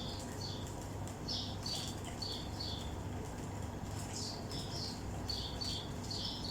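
Small birds chirping over and over, short high chirps a couple of times a second, over a low steady hum.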